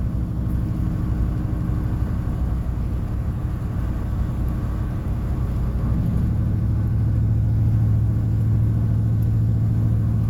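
Car engine and road noise droning inside the cabin at highway speed, around 70 mph. The low drone grows louder about six seconds in.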